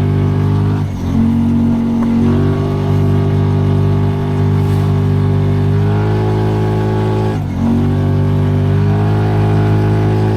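Off-road vehicle engine held at high, steady revs while climbing a snowy hill with the wheels sliding, the revs dropping briefly and picking back up twice, about a second in and about seven and a half seconds in.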